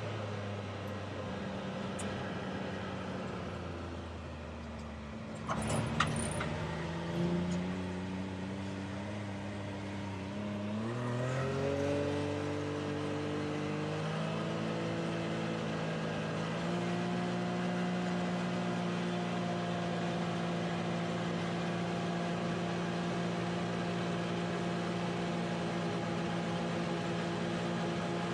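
Turbocharged three-cylinder engine of a 2019 Can-Am Maverick X3 XRS Turbo R side-by-side under way, with a few sharp clicks about six seconds in; its note then climbs in steps as it accelerates and settles to a steady pitch. It is a test run on a newly fitted drive belt, the fix for its misfire limp-mode faults.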